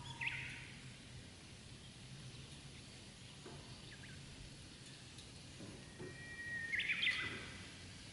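A bird calling twice: a short chirp just after the start and a louder, busier call about seven seconds in, preceded by a thin held note, over faint steady background noise.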